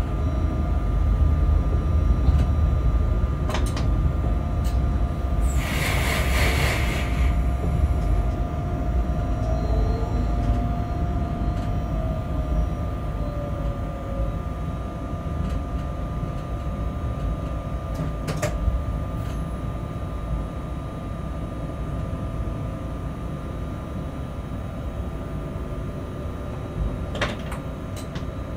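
Freight train rolling slowly through a rail yard, heard from the locomotive: a steady low rumble with a constant whine, getting gradually quieter. A short hiss comes about six seconds in, and sharp wheel clicks over rail joints and points come now and then, several close together near the end.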